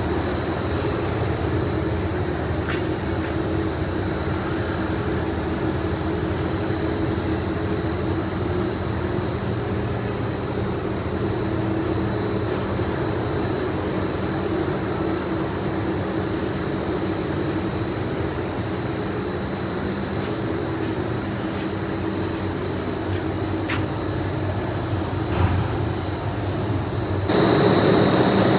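Steady drone of factory machinery with a constant high-pitched whine and a low hum, with a few faint clicks. Near the end it switches abruptly to a louder machine sound.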